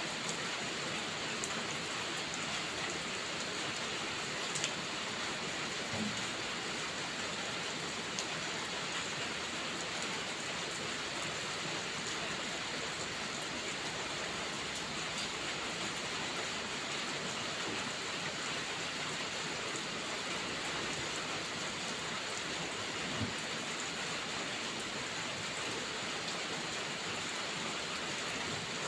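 Steady heavy rain falling, with a few sharp pops of a crackling wood fire in a fireplace standing out now and then.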